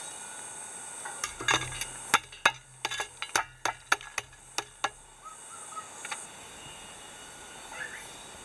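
A quick, irregular run of about a dozen sharp clicks and knocks that stops about five seconds in, over a faint steady hiss.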